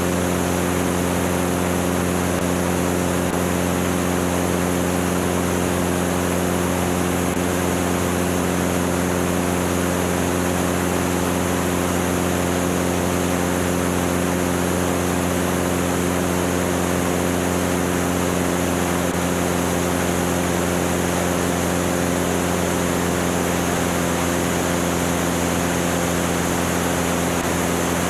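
Cessna 205's piston engine and propeller running steadily in flight, an even drone with a constant low hum and a rush of air noise over it and no change in pitch.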